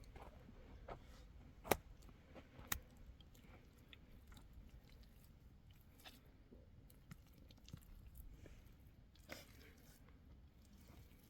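Quiet background with a few short, sharp clicks or knocks; the two loudest come about a second apart near the start, and fainter ones follow later.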